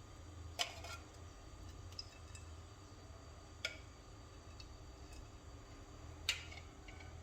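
Kadai with oil heating on the stove: a faint steady low hum with three sharp clicks, about three seconds apart.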